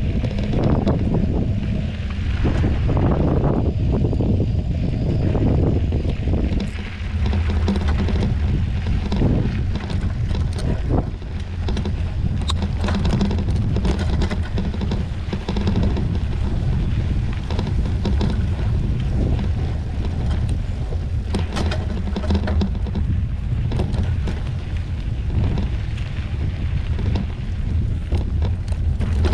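Wind buffeting the microphone over the steady rumble of a mountain bike riding a rough, rocky trail, with scattered sharp clicks and knocks from the bike rattling over loose rocks.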